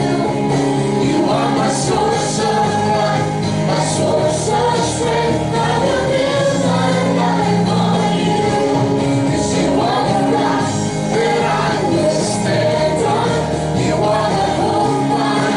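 Christian worship music with group singing over sustained instrumental chords.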